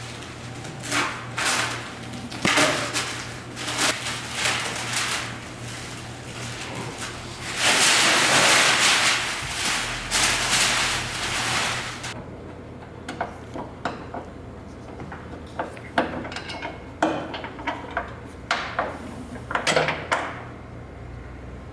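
Workshop clatter of car body parts and tools being handled: scattered knocks and clicks, with a loud rushing noise lasting about four seconds in the middle, over a steady low hum.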